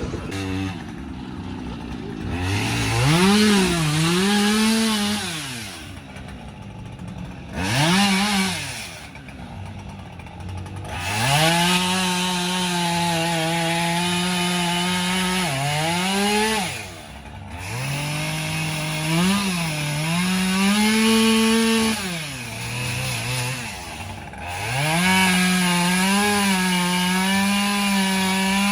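Chainsaw carving wood, revving up and down, easing off to a low idle every few seconds and then opening up again.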